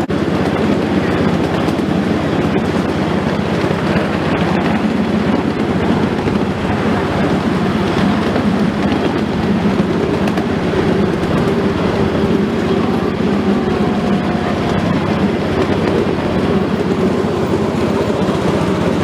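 Train running along the track, heard from on board: a steady, loud rumble of wheels on rails, with a faint short whine about two-thirds of the way in.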